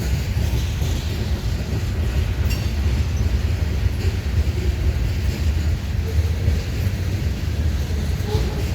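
Freight cars of a Norfolk Southern manifest train rolling past, a steady low rumble of wheels on rail with a few faint clicks and brief squeals.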